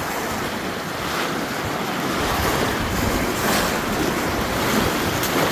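Steady rushing noise of wind on the microphone mixed with water being stirred.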